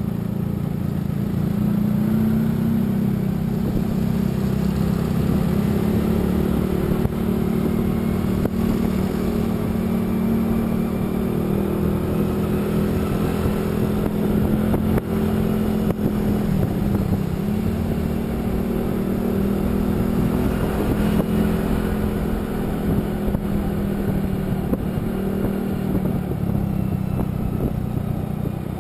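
A road vehicle's engine running steadily while driving. Its pitch dips briefly about halfway through, then recovers, as with a gear change or easing off the throttle.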